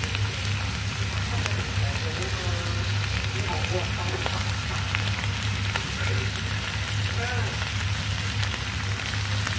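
Napa cabbage, sausage and chilli sizzling steadily in oil in a nonstick frying pan as they are stir-fried, the cabbage cooking down until wilted. A few light ticks sound through the sizzle, over a steady low hum.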